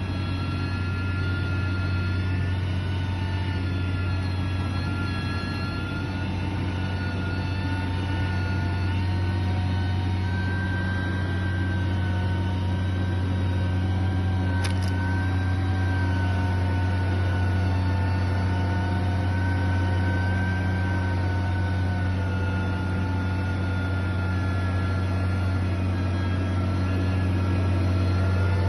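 Heavy construction machinery's diesel engine running steadily, with a deep hum and a slightly wavering whine over it. There is a single brief click about halfway through.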